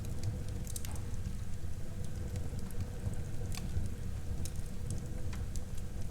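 Wood fire burning in a fireplace: a steady low rumble with scattered sharp crackles and pops, a cluster a little under a second in and single pops later on.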